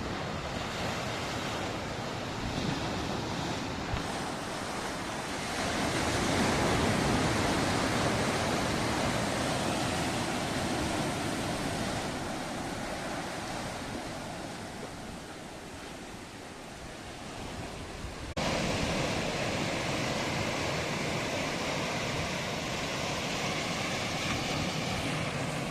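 Sea waves washing against a rocky shore, with wind on the microphone. The surf swells louder about a quarter of the way in, eases off, then the sound changes abruptly about two-thirds of the way through.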